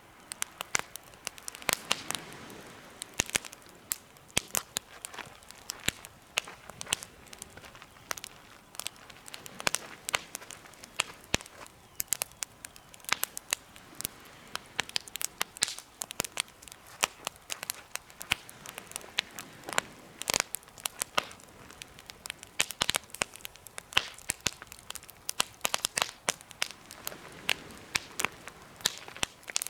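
Wood campfire burning in a homemade fire pit, crackling with many irregular sharp pops and snaps over a faint hiss of flame.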